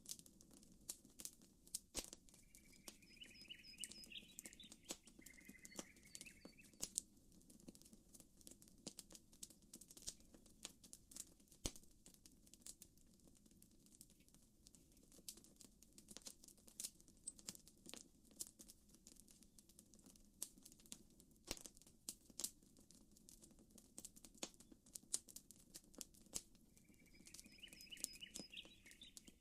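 Campfire crackling, with irregular sharp pops and snaps all through. A bird gives a short chirping call twice, a couple of seconds in and again near the end.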